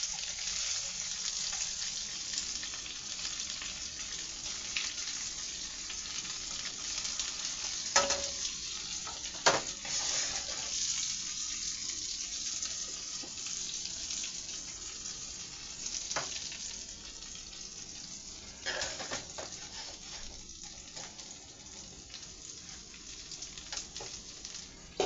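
Chicken nuggets sizzling and popping in butter and hot sauce in a frying pan, a steady hiss that eases a little toward the end. A few sharp clicks of a utensil against the pan, the first about eight seconds in.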